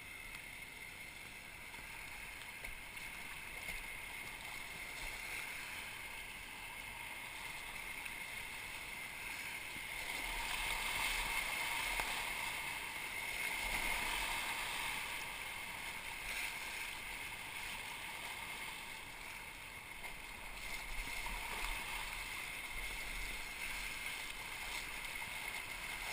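Rushing water of river rapids, a steady noise that grows louder for a few seconds about ten seconds in.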